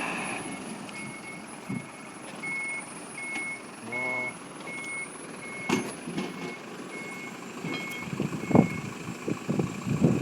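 Truck reversing alarm beeping, short high beeps at one pitch about every 0.7 seconds, stopping about eight and a half seconds in. A few sharp knocks are heard around six and eight and a half seconds.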